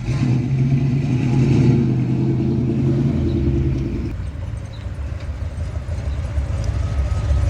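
A car engine running with a steady low rumble. The pitched rumble is loudest for about the first four seconds, then gives way to a lower, rougher rumble.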